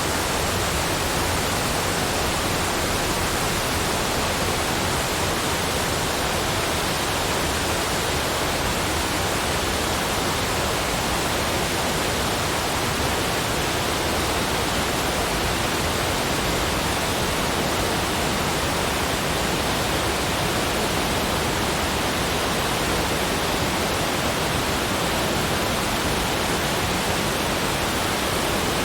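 Steady, unchanging rushing noise, like a waterfall, spread evenly from low to high pitches.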